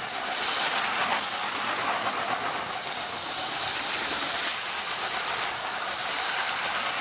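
A train running along its track: a steady rushing hiss with no clear beat.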